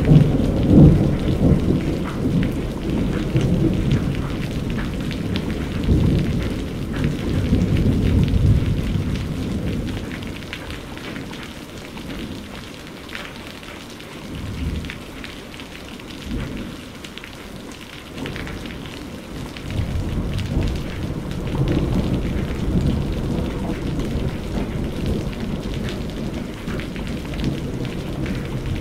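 Steady rain falling with rolling thunder. The thunder rumbles loudest over the first several seconds, dies away to just the rain, then rumbles again from about twenty seconds in.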